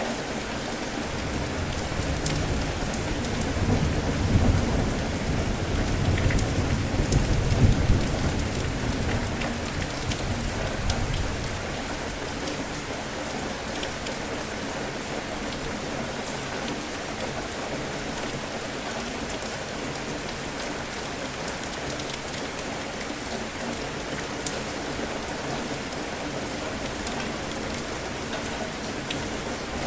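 Steady rain falling, with a long low rumble of thunder that swells over the first few seconds, peaks and dies away about twelve seconds in.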